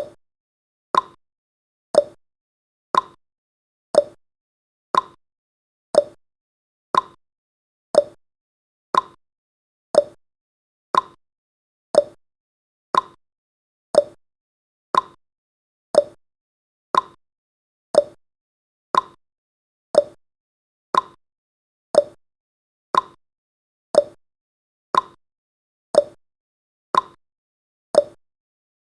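Countdown timer's ticking sound effect: one sharp tick every second, alternating a higher and a lower tick like a clock's tick-tock.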